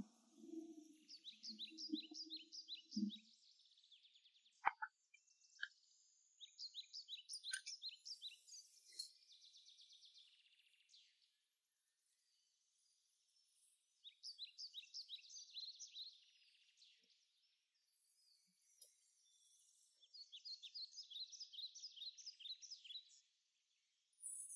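A small songbird singing in four bouts of rapid, high, evenly repeated chirps, over a faint background hiss. A sharp click about five seconds in, and a weaker one just after it.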